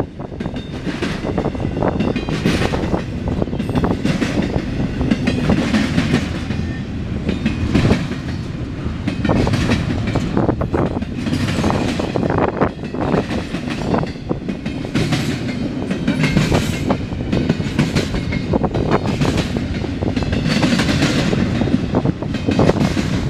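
CSX intermodal freight train's cars rolling past steadily, with a continuous rumble and repeated clacks as the wheels cross rail joints.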